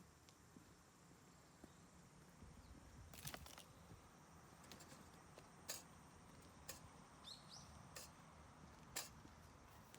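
Quiet outdoor ambience with a low, steady background rumble, broken by a handful of sharp clicks or taps about a second apart, and a brief high rising chirp about seven seconds in.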